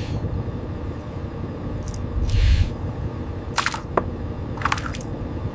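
Steady low rumble, as from a boat's engine and the sea, with a louder surge about two seconds in and several sharp clicks and clanks of gear on deck.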